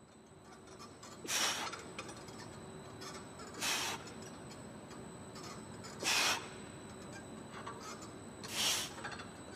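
Four short, hissing breaths out, about every two and a half seconds: a lifter exhaling hard on each rep of a chest-supported T-bar row, over a steady low background hum.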